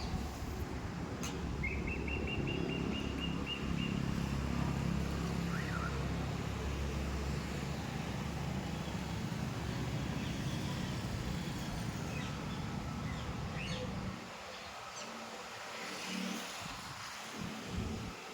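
A motor vehicle engine running steadily, dropping away about 14 seconds in, with birds chirping over it, including a rapid high trill about a second in.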